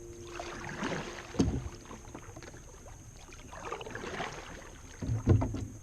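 Kayak paddling: the paddle swishes and splashes through the water in strokes, with two low knocks, one about a second and a half in and one near the end.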